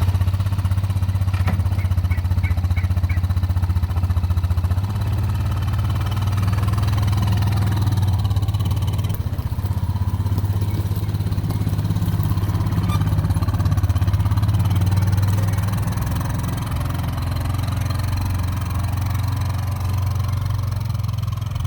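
A small vehicle's engine running steadily with a low hum, starting suddenly and easing slightly in level about two-thirds of the way in.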